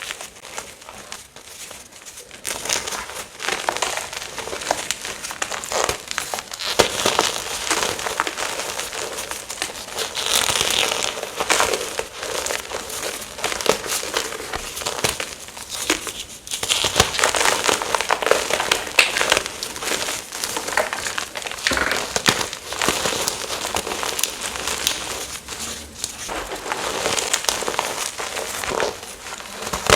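Gym chalk being crushed and crumbled by hand: a dense run of crunchy, crackling crumbles that starts about two and a half seconds in.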